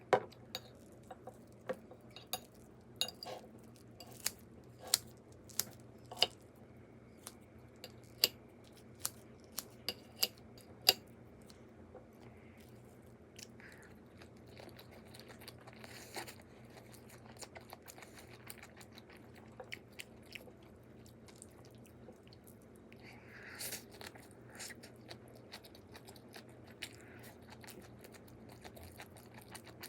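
Someone eating: chewing and biting food, with a run of sharp clicks and taps over the first ten seconds or so, then softer, scattered chewing sounds.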